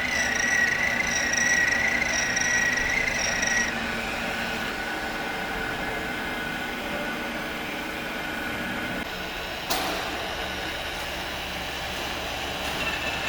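Metal-cutting machine preparing a J-groove weld bevel, running with a steady high whine that drops away about four seconds in, leaving a steady machine hum. A single sharp click sounds near the ten-second mark.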